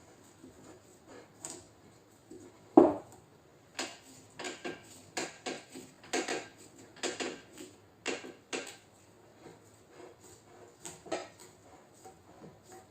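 Metal paintless-dent-repair tools clicking and tapping against the RAV4's trunk lid panel, a few irregular strikes a second, with one louder knock about three seconds in.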